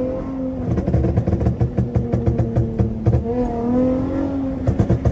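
Dodge Charger SXT's 3.6-litre V6 with a pop-and-crackle tune, its exhaust rumbling and letting out rapid runs of crackling pops off throttle, with a light rise in revs between the two runs, about three and a half seconds in.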